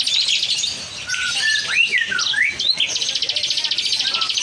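Several lovebirds calling: rapid chattering trills, the long one starting about three seconds in, typical of a female lovebird's 'ngekek' song, with sharp whistled up-and-down chirps between them.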